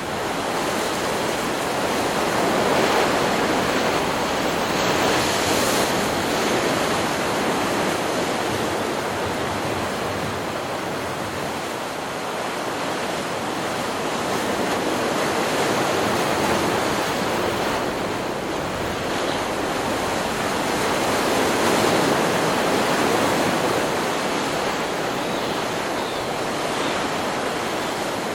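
Stock recording of ocean surf: a continuous wash of breaking waves, swelling louder a few seconds in and again about three-quarters of the way through.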